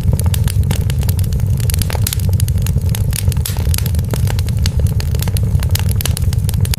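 Wood fire burning in a fireplace, crackling with many sharp irregular pops and snaps over a steady low rumble of the flames.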